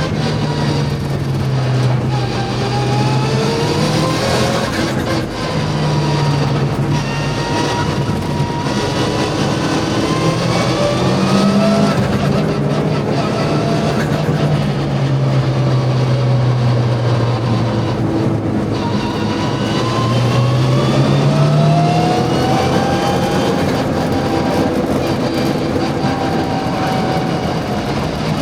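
Mitsubishi Lancer Evo VI Group A rally car's turbocharged four-cylinder engine running hard on track, its revs climbing and then dropping again several times as it accelerates and slows through corners.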